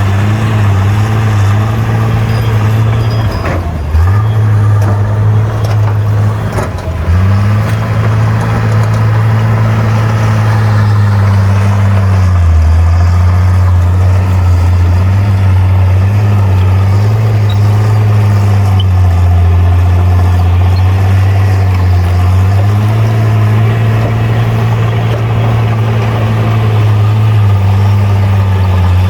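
Bulldozer's diesel engine running with a loud, low drone. Its pitch sags sharply twice, about four and seven seconds in, then runs lower for several seconds around the middle before rising again.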